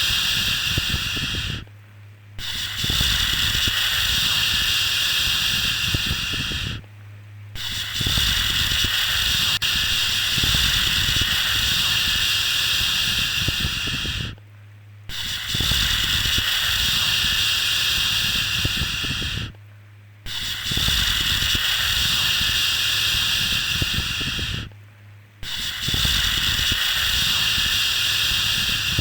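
Long, steady 'shhh' shushing sounds for soothing a baby, repeated with short breaks about every 5 to 7 seconds over a low hum.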